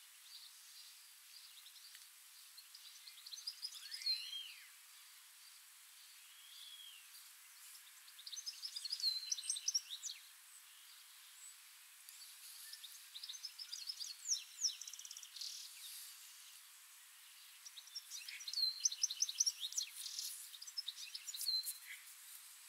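Songbirds singing: several short phrases of quick, high chirps and a few arching whistled notes, a few seconds apart, over a faint steady hiss.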